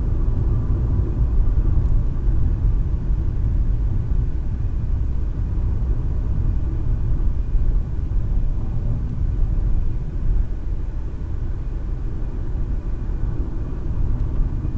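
Car driving at road speed, heard from inside the cabin: a steady low rumble of tyres on the road and engine.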